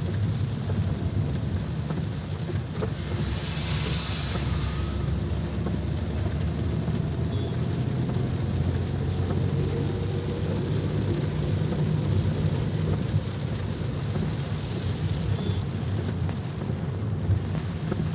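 A vehicle's steady low engine rumble in the rain, with a louder hiss from about three to five seconds in.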